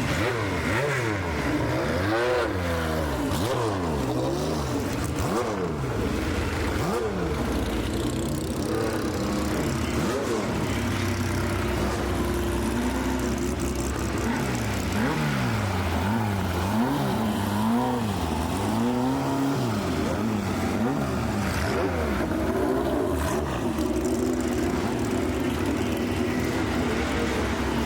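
Car engine revving over and over, its pitch rising and falling again every second or two, with stretches of steadier running between the revs.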